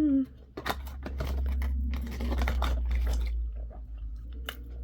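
Close-miked chewing of fried food, with scattered small crunches and mouth clicks over a steady low hum.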